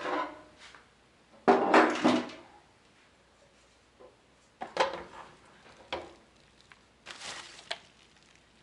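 Hard objects being handled: a loud clatter about one and a half to two seconds in, then a few shorter knocks and rattles about five, six and seven seconds in.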